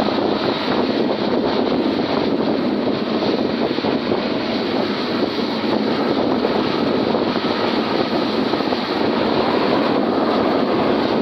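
Tractor engine running with a loud, steady, unbroken noise.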